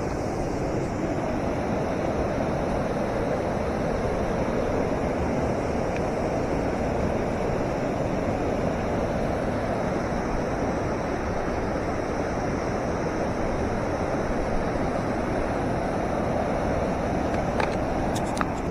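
Mountain river rushing over its rocky bed: a steady, unbroken rush of flowing water.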